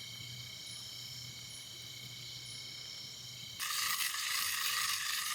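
Cooking oil poured into a pan of butter over a campfire, sizzling loudly from about three and a half seconds in. Before that there is only a faint steady high chirring of night insects.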